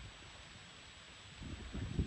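Air buffeting the microphone: an uneven low rumble over a steady hiss, growing louder about one and a half seconds in.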